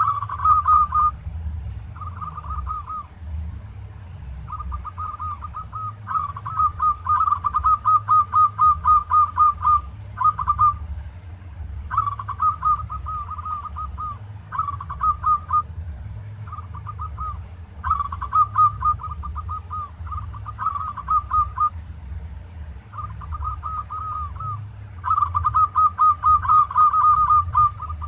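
Zebra dove (perkutut) cooing: repeated phrases of quick, trilling coos, each a second or two long with short pauses between, over a steady low hum.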